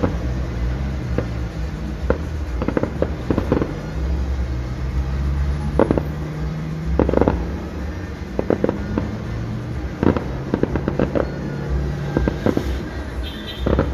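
Aerial fireworks shells bursting in an irregular string of bangs and cracks, roughly one or two a second, with quick clusters of several bursts around the middle and near the end.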